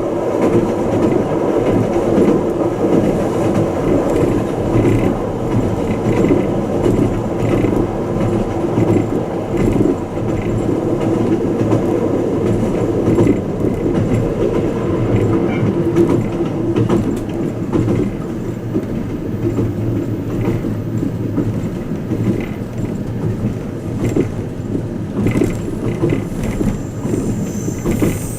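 Twilight Express Mizukaze (JR West 87 series) train running at speed, heard from inside a passenger cabin: a steady, even rumble of wheels on rail.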